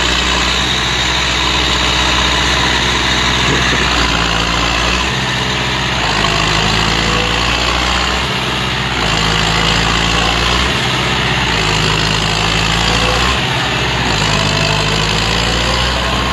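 Heavy tractor engine running steadily, its pitch shifting in steps every couple of seconds.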